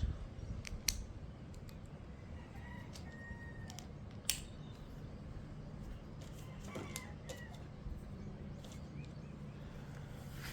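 Faint rooster crowing, twice, mixed with a few sharp clicks of Lego bricks being pressed together.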